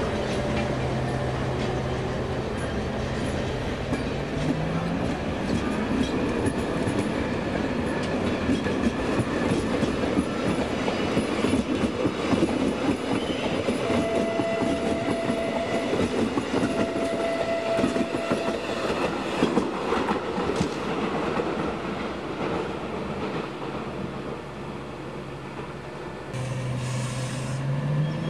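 A Zentralbahn push-pull passenger train rolls past, its coach wheels clicking over the rail joints, with two steady high notes about halfway through. Near the end the Class 101 electric locomotive passes, its motor whine rising in pitch as the train picks up speed.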